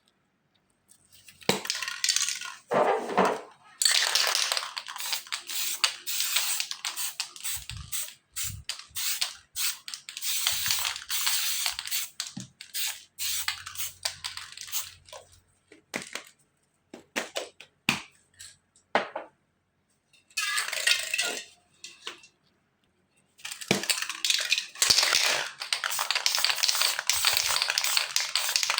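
Aerosol spray paint cans hissing in several long bursts, with short pauses and scattered clicks and scraping between them.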